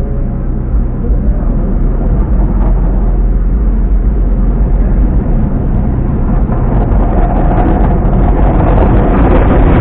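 Automatic car wash working over a car: a loud, steady rushing noise with a deep rumble, growing louder near the end.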